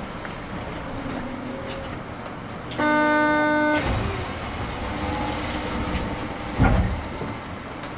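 Cabin running noise of a 200 series New Tram, a rubber-tyred automated guideway train, as it approaches Port Town West station. About three seconds in, a loud steady pitched tone lasts about a second, and a sharp thump comes near the end.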